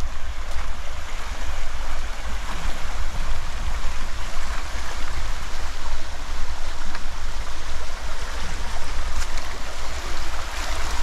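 A swollen forest stream running, a steady rush of flowing water.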